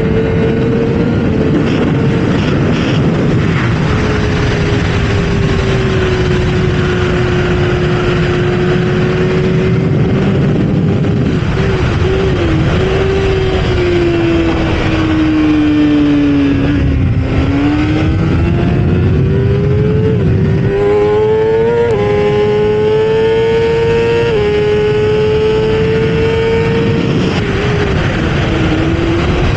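Kawasaki ZX-6R inline-four engine running hard on track, heard onboard over heavy wind rush. Its note sags slowly, dips lowest a little past halfway, then climbs again with several sudden jumps in pitch.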